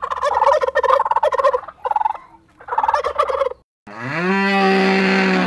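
A flock of domestic turkeys gobbling in three chattering bouts. After a short break it is followed by one long, loud animal call held at a steady pitch.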